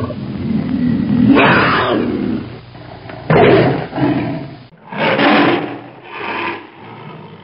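Tiger roaring and growling: one long, rumbling roar followed by three shorter roars about a second apart.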